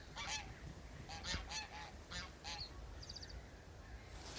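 A flock of geese honking, a series of short honks a few times a second. A brief high trill from a small bird about three seconds in.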